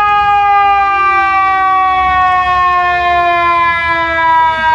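A siren sounding a loud held tone that slides slowly down in pitch and steps down slightly near the end.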